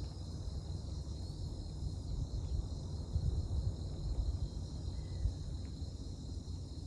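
Steady chorus of insects trilling, with a low, uneven rumble underneath.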